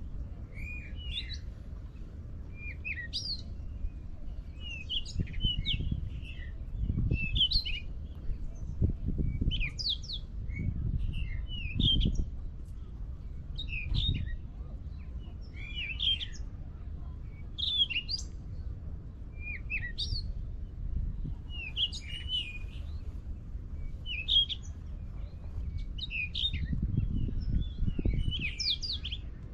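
A bird singing, a short chirping phrase repeated about every two seconds, over low rumbling noise that swells now and then.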